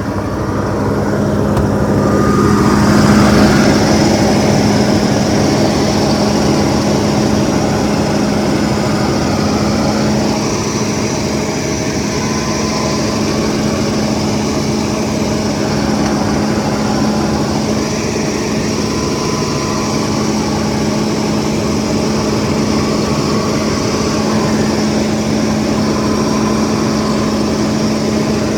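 1979 Mercedes-Benz 450 SLC's 4.5-litre V8 running at a fast idle, swelling over the first few seconds and then holding steady. The idle is too high, for no reason the owner can see.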